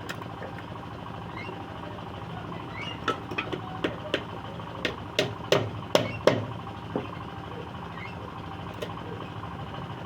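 Hammer knocking on scrap wood, about a dozen irregular sharp strikes starting about three seconds in, the loudest a little past the middle, over a steady low hum.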